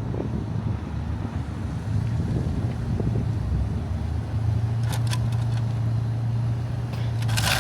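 Car driving: a steady low engine and road drone, with a few faint clicks about five seconds in and a burst of hiss near the end.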